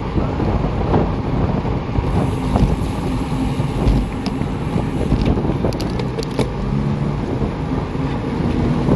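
Steady wind buffeting on the microphone, with a few faint clicks and a faint low hum underneath.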